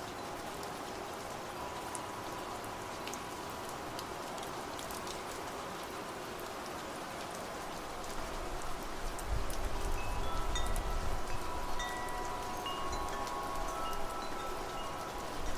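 Steady rain with scattered drop ticks. About halfway through, a gust of wind picks up and wind chimes start ringing, several clear tones overlapping.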